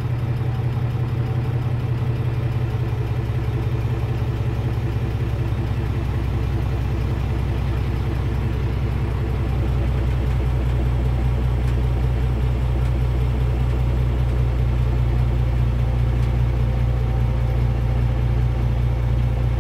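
Truck engine running steadily while powering the truck-mounted crane's hydraulics as the main cylinder lifts a heavy lathe bed. The engine sound shifts slightly and grows a little louder about halfway through.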